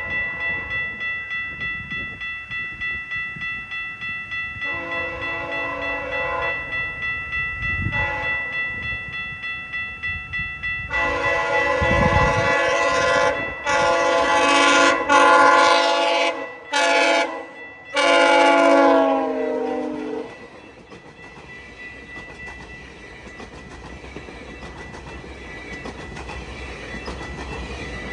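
Horn of GO Transit cab car 251 sounding as the train approaches: a few shorter blasts, then a loud run of long blasts with brief breaks that bends down in pitch as it ends and the cab passes. After it comes the steady rumble and wheel clatter of the passing coaches.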